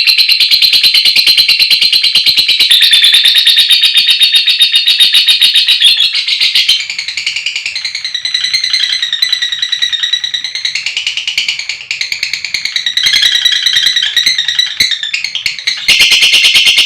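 Lovebird chattering in a long, rapid, unbroken trill (ngekek panjang). It is loud for the first six seconds, softer with more varied chirps through the middle, and loud and rapid again near the end.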